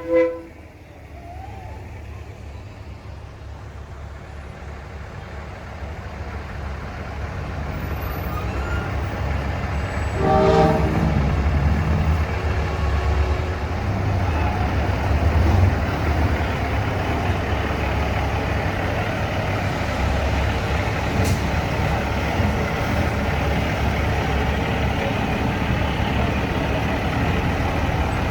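Diesel semi-truck engines rumbling as trucks roll by, building up over the first ten seconds and then holding steady. An air horn stops just as it begins, and another short air-horn blast sounds about ten seconds in.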